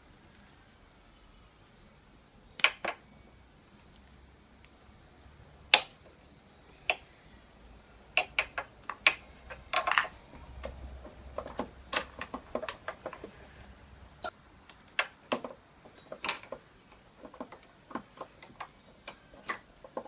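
Irregular sharp clicks and knocks of small hard objects being handled: a few scattered at first, then coming more often from about eight seconds in.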